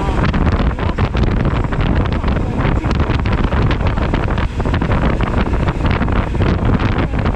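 Loud wind rumble buffeting the microphone of a motorcycle at riding speed, a dense steady roar that flutters rapidly.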